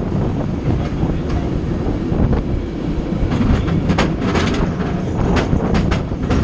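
San Francisco tram running along its rails: a steady low rumble with frequent sharp clacks and rattles.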